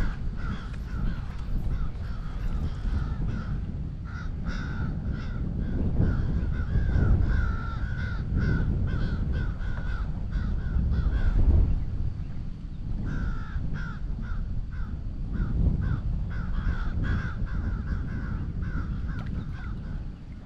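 Birds calling over and over in short, repeated notes, a few each second with a brief pause about halfway through, over the low rumble of wind on the microphone.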